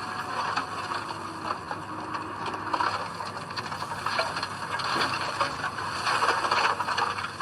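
Komatsu D20P crawler bulldozer at work, its engine running under a steady mechanical noise full of small clicks and rattles from the tracks and steel parts.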